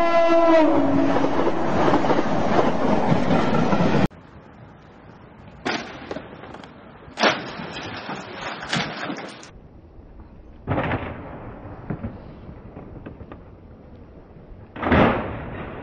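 A train passing close by, loud and steady, with a horn-like tone that falls in pitch at the start; the sound cuts off abruptly about four seconds in. After that, over a quiet background, come a handful of separate knocks and crashes, the loudest near the end.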